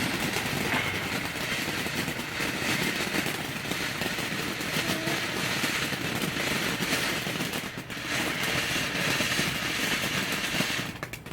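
Consumer firework crackling and popping in a rapid, continuous stream for about eleven seconds, then stopping abruptly near the end.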